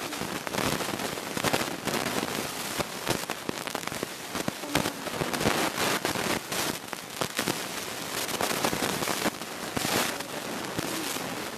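Coloured slime being squeezed and worked by hand: a dense, irregular run of wet crackles and small pops.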